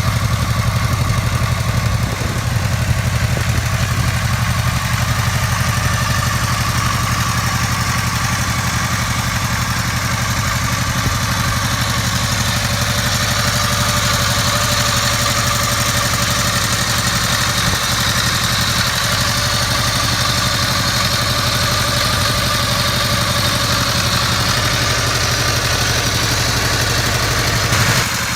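A V4 motorcycle engine idling steadily, with no revving.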